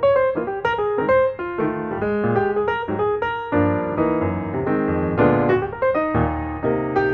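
Piano music: a steady run of notes, with chords at several points.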